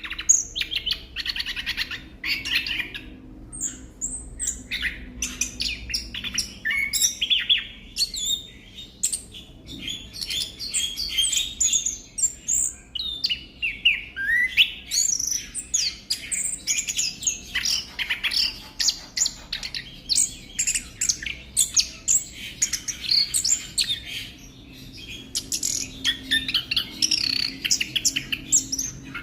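Chestnut-backed thrush (anis kembang) singing a fast, unbroken run of varied chirps and short whistled glides.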